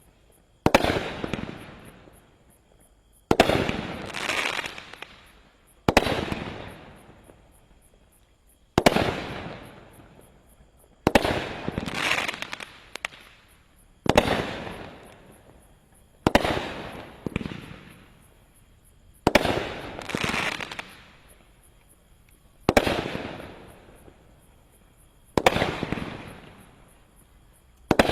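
A 350-gram consumer firework cake firing single shots, about one every two and a half to three seconds. Each shot is a sharp report that dies away, often followed about a second later by a softer burst with crackle.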